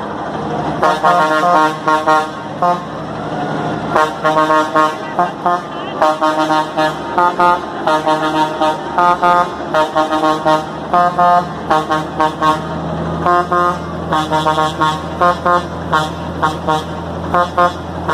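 A truck's musical air horn playing a tune in many short blasts of changing pitch, over a diesel engine idling.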